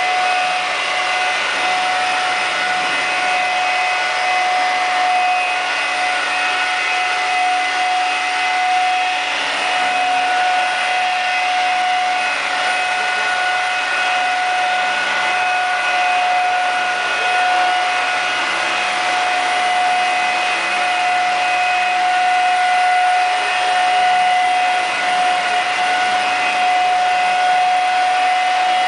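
Electric RC scale helicopter running: a steady high-pitched whine from its motor and drivetrain over rotor noise, holding one even pitch, with a second, higher tone joining about ten seconds in.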